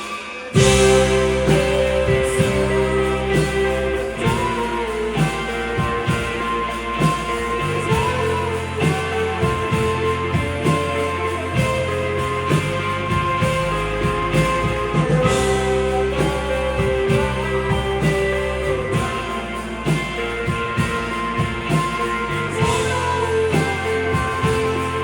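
Live rock band playing. The full band comes in sharply about half a second in, then plays on with a steady drum beat.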